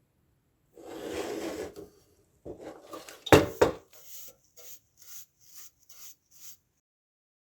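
Metal parts of an old electric heater being handled during disassembly: a scrape about a second in, a loud metallic clank near the middle, then a run of about six short scraping strokes.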